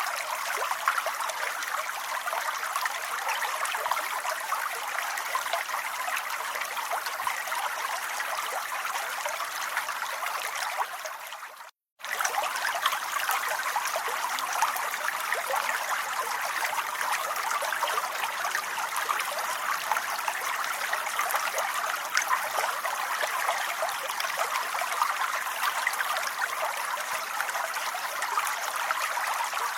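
Steady rain, a dense even patter of drops; it fades out to silence for a moment about twelve seconds in and comes straight back.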